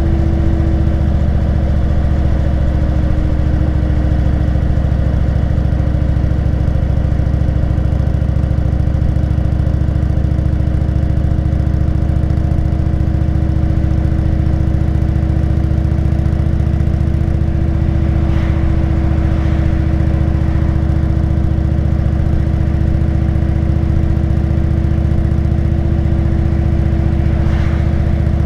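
Motorcycle engine running at a steady cruise, its pitch holding nearly level throughout.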